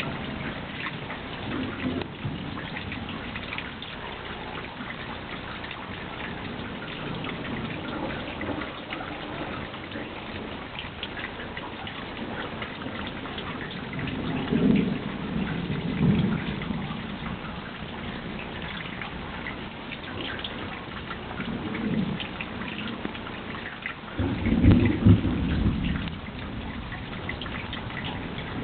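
Steady rain falling with thunder rumbling: a rumble about halfway through and a louder one near the end.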